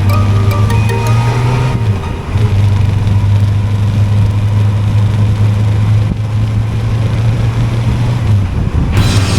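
Honda CB400SF's inline-four engine running steadily while riding, with a brief drop in the engine note about two seconds in. Loud rock music cuts in near the end.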